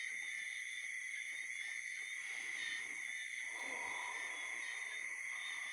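Night chorus of frogs and insects calling steadily in gentle rain, a constant high trill over it, with a lower call coming in about three and a half seconds in and lasting nearly two seconds.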